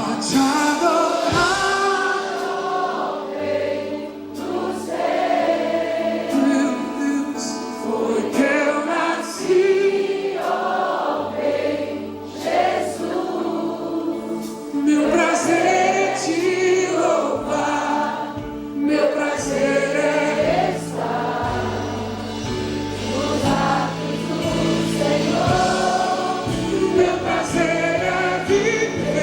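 Gospel choir singing a worship song in Portuguese, with band accompaniment and held bass notes underneath.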